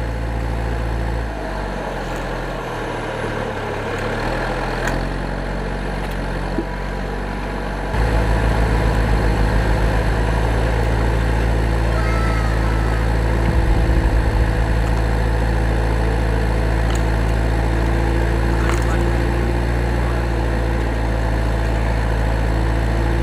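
A vehicle engine running steadily at idle, with a low rumble that grows louder about eight seconds in.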